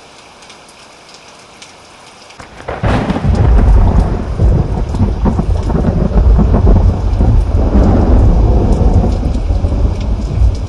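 Steady rain, then about two and a half seconds in a sudden loud thunderclap breaks into a long, deep rumble of thunder that carries on under the rain and begins to ease near the end.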